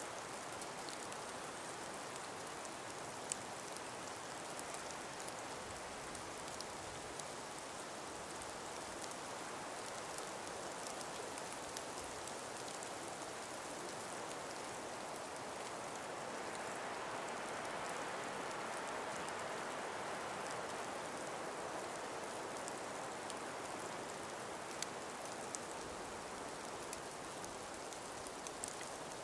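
Calm winter breeze through an ice- and snow-laden forest: a steady soft hiss that swells a little past the middle and eases off again, with a few faint scattered ticks.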